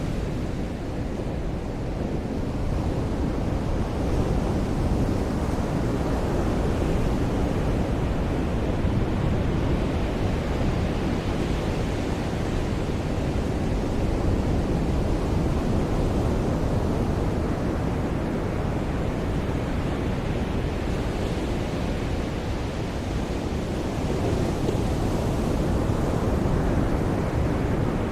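Ocean surf washing onto a beach: a steady rush of wave noise that swells and eases slowly every several seconds.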